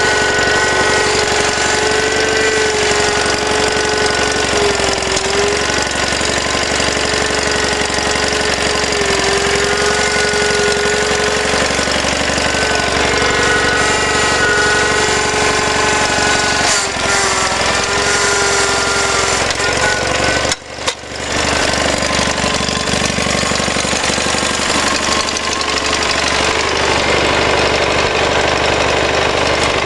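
Gravely 7173H garden tractor engine running steadily, with a steady whining tone that sags in pitch now and then. The sound drops away briefly about twenty seconds in.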